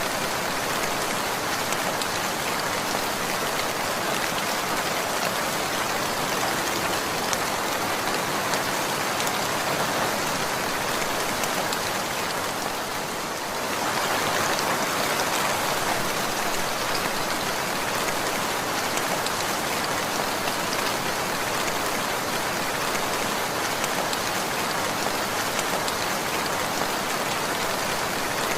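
Steady rain falling and pattering on surfaces, with a brief slight dip in level about halfway through.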